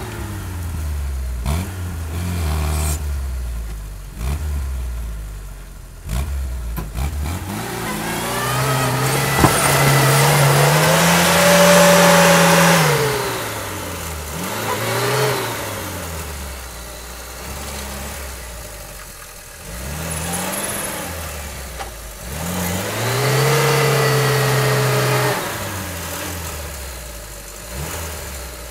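Lada Niva's engine revving up and dropping back again and again as the 4x4 is driven through deep mud, with one long hard rev in the middle and another near the end.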